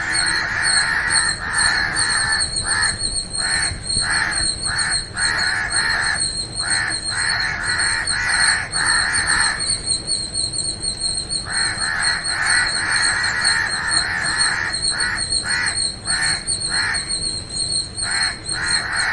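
A flock of birds calling in a busy, overlapping chorus of harsh, repeated calls, with a break of a second or two around halfway. A steady high-pitched whine runs underneath.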